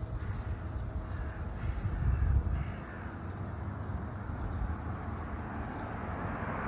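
Birds calling over a steady low rumble.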